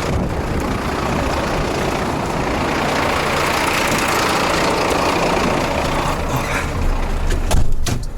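Scania truck's diesel engine running, with a hiss that swells and fades over several seconds and a few sharp knocks near the end.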